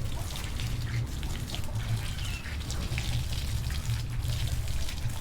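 Water running and splashing over a cat cage as it is rinsed, with many small irregular splashes and clicks over a low steady rumble.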